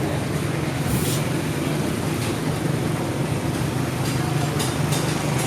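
Street traffic: a motor vehicle's engine running with a steady low hum, with a few short hisses about a second in, around two seconds in and near the end.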